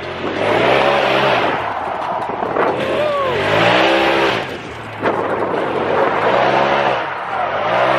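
Car engine heard from inside a roll-caged cabin, revving up and dropping back about four times in quick succession during hard driving. A loud rushing noise from tyres and wind runs underneath.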